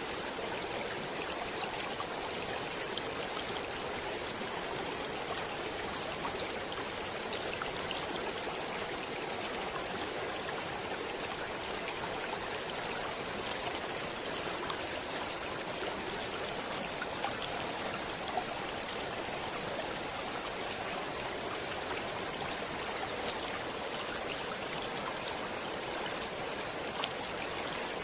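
Running stream water: a steady rush of flowing water with many small splashes and trickles, unchanging throughout.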